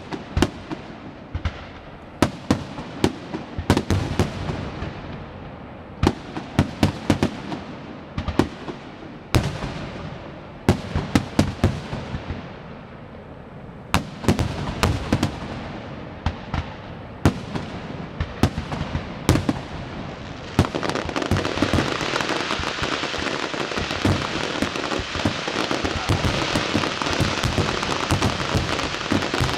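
Fireworks going off: a string of sharp bangs, each trailing away, then from about two-thirds of the way through a dense, continuous crackling.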